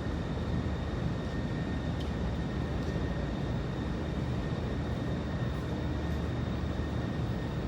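Steady low rumble with a faint, steady high whine, like passing traffic or a distant engine.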